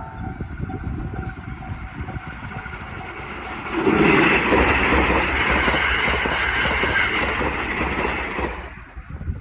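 JR Kyushu 787 series electric train rumbling on the rails as it nears the crossing, then passing close at speed from about four seconds in with a loud, steady rush of wheel and air noise. The noise drops away near the end.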